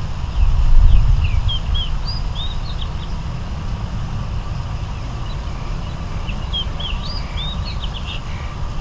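Small birds chirping in two short flurries of quick, curving calls. Under them runs a steady low rumble, which swells briefly about a second in.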